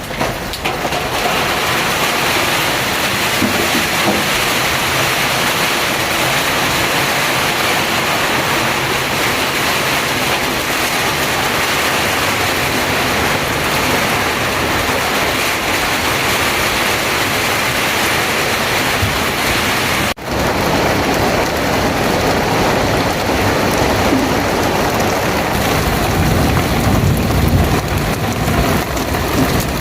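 Heavy rain falling steadily, an even hiss that breaks off for an instant about two-thirds through and then continues with a little more low rumble.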